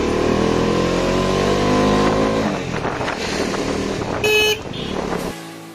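Bajaj Dominar 250's single-cylinder engine accelerating, its pitch rising for about two seconds before easing off, with wind noise. A short horn beep about four seconds in, and near the end the engine sound drops out as music starts.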